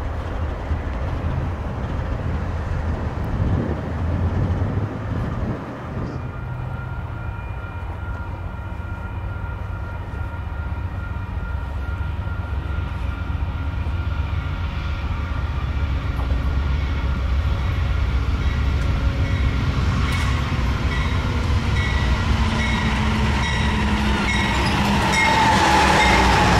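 Diesel-hauled train running past, a steady low rumble that grows louder, with several high steady tones joining in about six seconds in and strengthening near the end.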